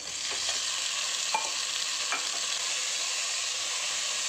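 Tomato pieces sizzling in hot oil in an aluminium pressure cooker, a steady frying hiss, while a steel ladle stirs them and clicks against the pan a few times.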